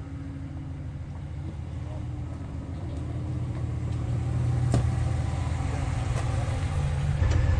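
A vehicle's engine running, a steady low rumble that slowly grows louder, with one sharp click a little under five seconds in.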